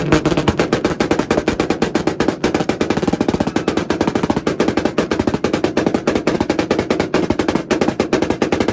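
Honda engine held on a two-step launch-control rev limiter, the exhaust popping in a rapid, even string over a steady engine note.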